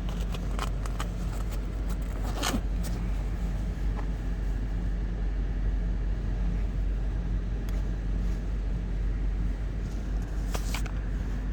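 Steady low hum of the 2004 Lexus GX 470 idling, heard from inside the cabin, with a couple of brief clicks from handling inside the car.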